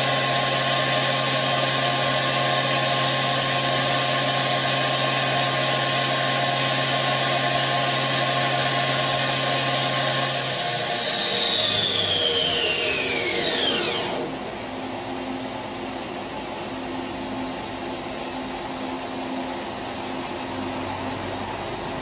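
The spindle of a 2005 Daewoo DMV5025-50 vertical machining center running at 8,000 RPM with a steady high whine. About ten seconds in it spins down, the whine falling in pitch until it stops about four seconds later, leaving the machine's quieter steady hum.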